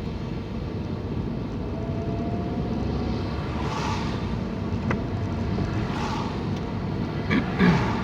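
Car running along a wet road, heard from inside the cabin: a steady low rumble of engine and tyres, with a few brief swishes around the middle and near the end.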